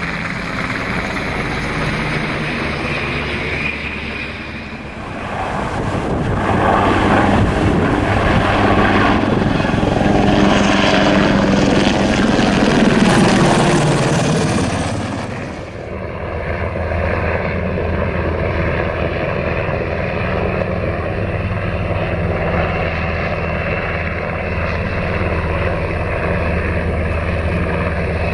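Sikorsky HH-60G Pave Hawk helicopter's turbine engines and rotor running. A louder, rushing passage swells up about five seconds in and drops away suddenly near the middle. After that comes a steadier drone with a thin high whine.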